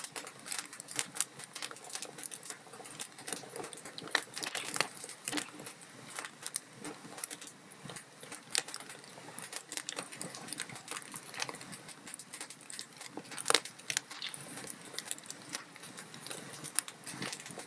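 Wood logs burning in a fireplace, crackling and popping irregularly over a steady hiss, with one sharper pop about two thirds of the way through.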